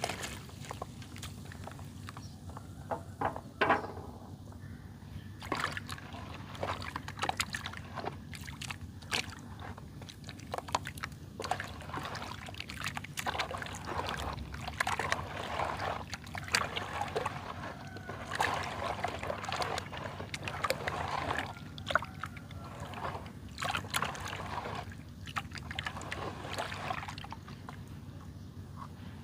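Wet mud being squeezed and broken apart by hand: irregular squelching and crackling that comes in dense clusters, over a low steady hum.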